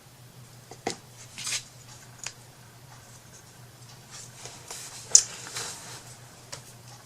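Scattered light clicks, taps and scrapes from handling small craft pieces on a tabletop, over a low steady hum.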